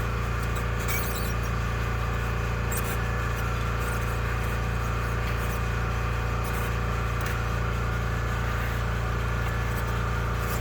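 A steady low hum throughout, with a few faint clicks and knocks from hand work.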